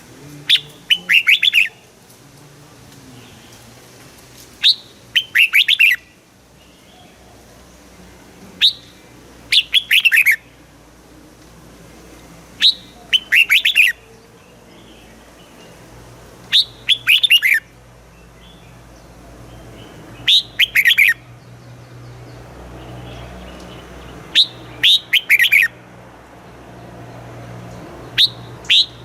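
Red-whiskered bulbul singing: a short, bright phrase about every four seconds, each a quick high note and then a rapid run of falling whistled notes, eight phrases in all. A low steady hum runs underneath.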